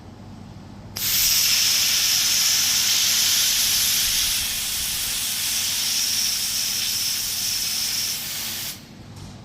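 A 2000 W automatic fiber laser welder runs a weld pass as a loud, steady hiss with a high whine in it. The hiss switches on about a second in, drops a little partway through and cuts off suddenly near the end.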